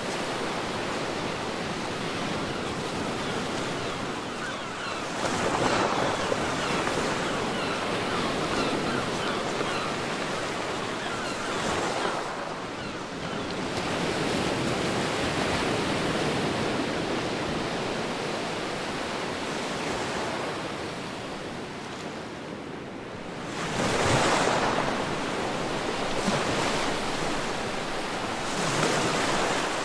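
Ocean waves breaking and washing up a beach, a steady rush of surf with a louder wave surging in every few seconds, the strongest about two-thirds of the way through.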